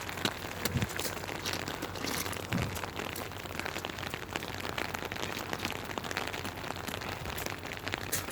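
Steady rain falling, with many drops ticking close by against a hiss, and a couple of dull low thumps early on.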